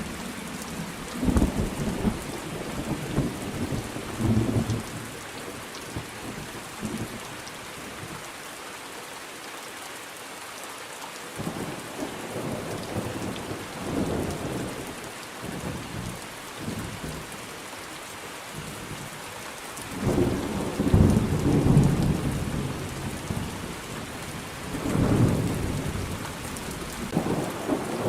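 Steady heavy rain falling, with rolling thunder rumbling in and out; the loudest peals come about two-thirds of the way through and again near the end.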